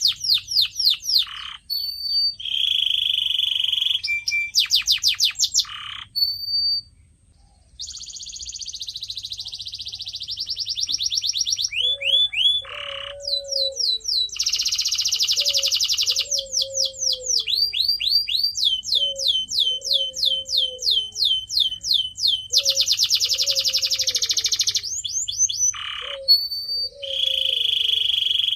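Canary singing a long, loud song of rapid trills and rolls, switching to a new repeated phrase every second or two, with a brief pause about seven seconds in. From about twelve seconds on, a lower, slower warbling note repeats underneath the trills.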